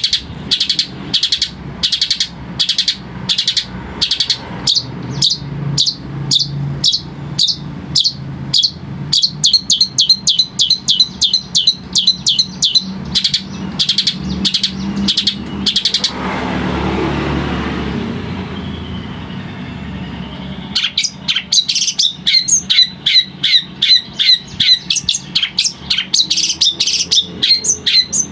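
Long-tailed shrike (cendet) calling in a fast series of sharp repeated notes, about two to three a second. About two-thirds of the way in the calls stop for roughly five seconds while a rushing noise swells and fades, then the calls resume.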